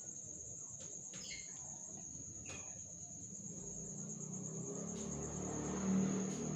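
Steady high-pitched insect chirring that holds at one pitch throughout, with a low rumble building under it in the second half.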